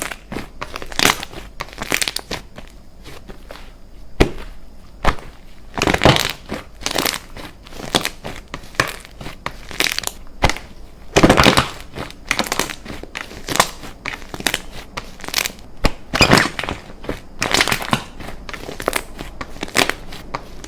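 Hands pressing and squeezing slime: an irregular run of squishing, crackling presses, roughly one a second.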